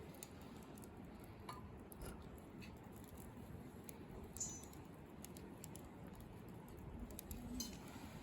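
Faint scattered clicks and two light clinks, about four seconds in and again near the end, over a low steady background hiss.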